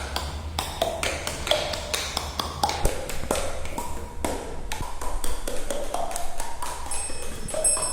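A quick, irregular series of taps and clicks, several a second, some leaving a short ringing note.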